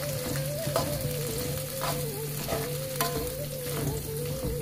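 Chili paste with kaffir lime leaves sizzling in a wok while a metal spatula stirs it, with a few sharp scrapes of the spatula against the pan, over a steady hum.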